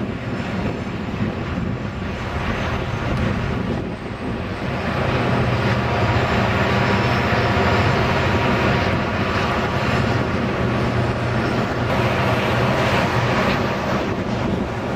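Diesel freight locomotives running under power: a steady, deep engine drone with wheel and rail noise, growing louder about five seconds in.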